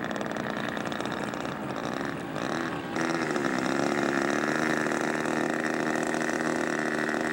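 Radio-controlled model airplane engine running. About three seconds in it comes through stronger as a steady, even buzz that dips briefly in pitch and then holds.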